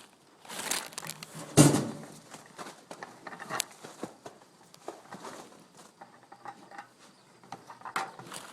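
Close rustling and crinkling with scattered small clicks and knocks, and one loud thump about one and a half seconds in.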